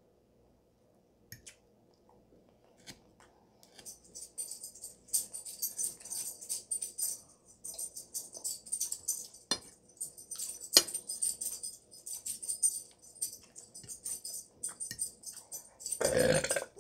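Close-up chewing of a crisp toasted croque-madame, a dense run of crunchy crackles in quick clusters with brief pauses, after a few quiet fork clicks. A short loud throat noise near the end.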